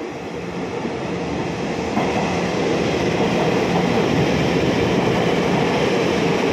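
Puyuma Express, a TEMU2000 tilting electric multiple unit, running through the station without stopping. The rush of wheels on rail grows as it approaches, then turns into a steady loud rushing rumble from about two seconds in as the cars pass close by.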